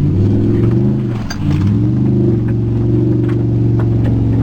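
Pickup truck engine revving hard while the truck spins doughnuts. The revs rise, sag briefly about a second in, then climb again and hold steady and high.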